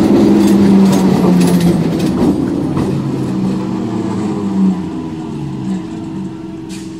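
Electric multiple unit (EMU) local train running past close by, its wheels clattering over the rail joints. The noise dies away over the next few seconds, leaving a steady low hum.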